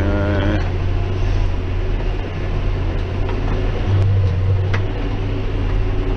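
John Deere 6190R tractor engine running steadily under heavy load while pulling a Claas 3300 square baler through barley straw, working about at the tractor's limit. The low engine drone swells briefly about two-thirds of the way through, with a few faint clicks over it.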